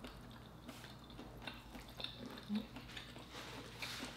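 Faint chewing and wet mouth sounds of lobster tail meat being eaten, with a few soft clicks scattered through.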